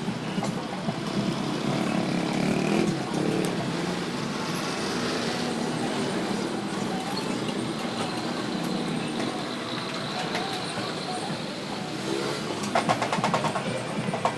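Steady road traffic noise from passing motor vehicles, with a quick run of sharp clicks near the end.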